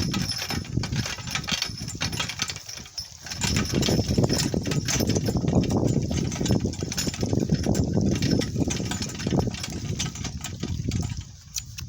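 Donkey cart rolling over rough, bumpy ground: a constant jolting rumble with rattles and knocks from the cart, and donkey hoof steps.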